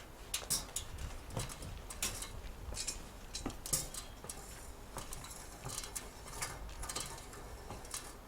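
Scattered light clicks and taps, several a second at an uneven pace, from hands and tools at work on the fireplace and chimney installation.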